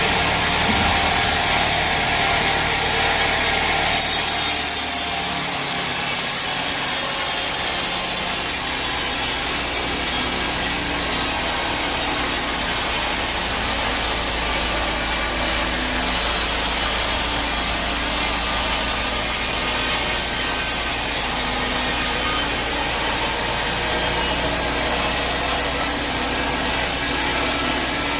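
Sawmill bandsaw blade cutting lengthwise through a teak log, a steady sawing sound that sets in about four seconds in, over the even low hum of the mill's running machinery.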